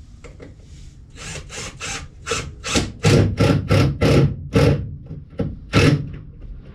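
A hand tool worked back and forth on a cedar fence-picket board, about a dozen quick rasping strokes at roughly three a second, starting about a second in and stopping near the end.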